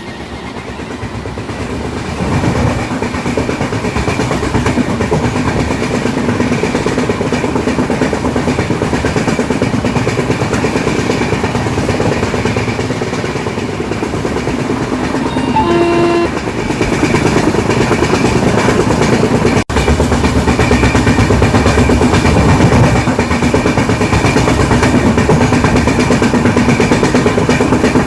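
Train running past at speed, its wheels clattering steadily on the rails, growing louder over the first couple of seconds. A short horn blast sounds about halfway through.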